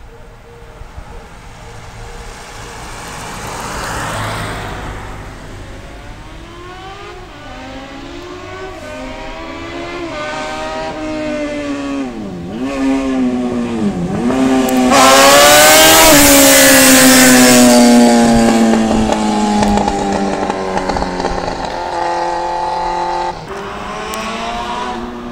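Yamaha FZS600 Fazer's inline-four engine, running without a silencer on its bare header pipes, being revved. The pitch climbs over several seconds, drops sharply twice, then is loudest near the middle before falling away slowly.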